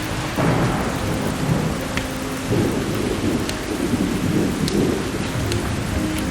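Thunder rumbles and rolls over steady rain, starting about half a second in and swelling in the middle, with a few sharp pops from a crackling wood fire.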